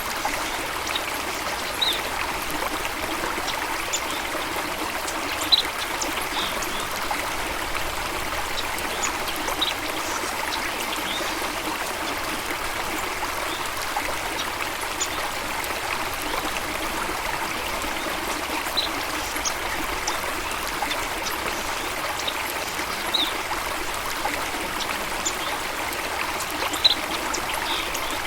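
Steady rush of running water, with short, high bird chirps every few seconds.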